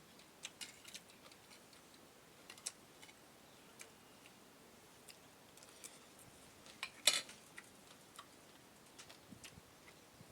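Quiet eating sounds: scattered small clicks and taps of mouth and tableware, with one louder click about seven seconds in.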